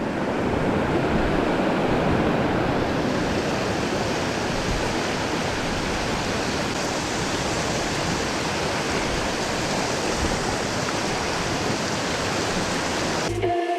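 River water rushing, a steady loud rush that cuts off abruptly near the end.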